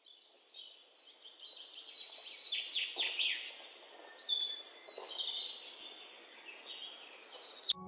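Birds chirping and whistling: a run of high-pitched calls with several quick downward-sweeping notes, cutting off suddenly near the end.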